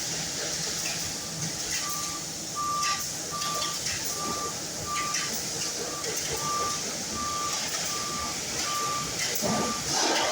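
A vehicle's reversing alarm beeping: one steady tone repeating evenly, about three beeps every two seconds, starting about a second in. A louder noise rises briefly near the end.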